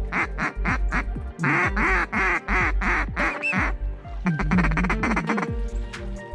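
Ducks quacking repeatedly in quick series, over background music with a steady low beat.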